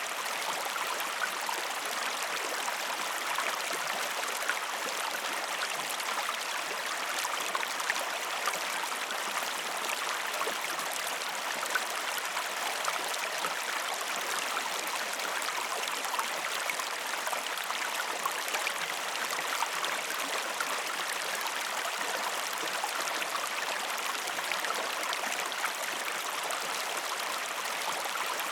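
River water flowing: a steady, unbroken rushing and trickling.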